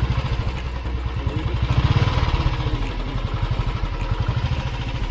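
Motorcycle engine running while riding, a rapid even low beat, with wind and road noise; it swells about two seconds in.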